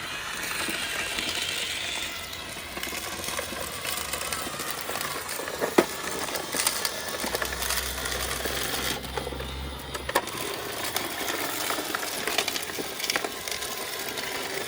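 iRobot Roomba 671 robot vacuum running over a rough driveway, its motor and brushes rattling as it sweeps up grit and tree debris, with two sharp clicks partway through.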